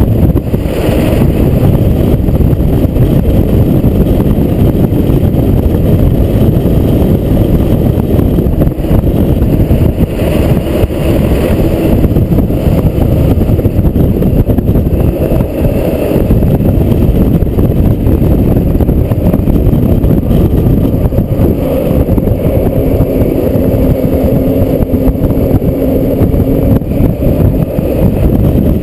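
Fire truck under way: a loud, steady rumble of its engine and road noise.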